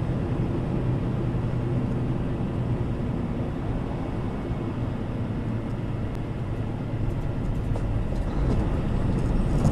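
Steady low drone of a semi truck's engine and road noise inside the cab while driving. The noise gets louder near the end, with light rattles and knocks from rough pavement.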